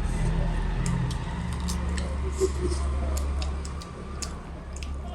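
Low, steady engine hum of a construction machine running outside, easing off nearly four seconds in, with scattered sharp clicks and chewing sounds of eating close by.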